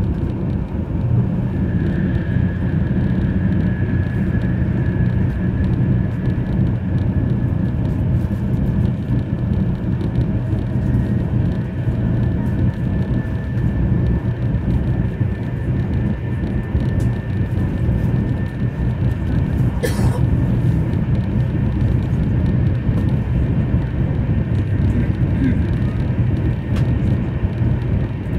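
Steady low rumble of a Taiwan High Speed Rail train running at speed, heard inside the passenger cabin, with a faint high whine over it and a single click about twenty seconds in.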